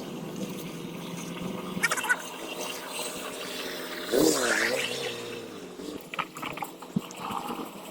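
Steady rush of flowing water from a stream near the waterfall trail, with a brief voice about four seconds in and a few light clicks.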